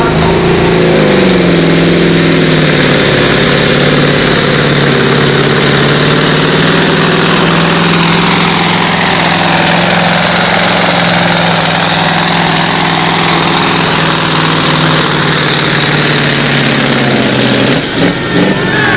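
Pulling tractor's engine running flat out under load. Its pitch drops over the first couple of seconds and then holds steady, with a high whine over it. The engine is cut back suddenly about a second before the end.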